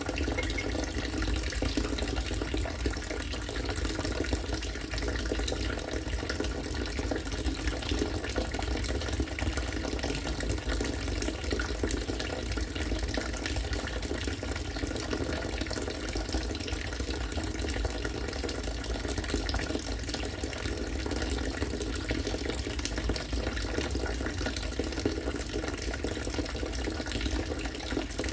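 Harvested rainwater pouring steadily into a collection container, a continuous splashing and bubbling flow like a running tap.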